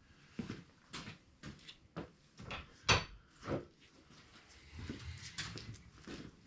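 Knocks as the stuck oil pan of an LS V8 on an engine stand is persuaded loose, about two a second, the loudest a little under three seconds in. Lighter, irregular clatter follows near the end.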